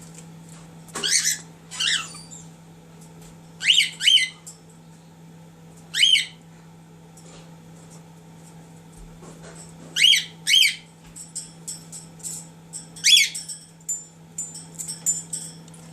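Cockatiel whistling short, high, falling calls, mostly in pairs, with softer quick chirps near the end.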